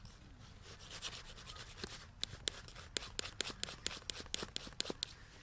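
Close-up scraping and rubbing, then a quick run of sharp, dry clicks about three to four a second, from hands working small pieces of firewood.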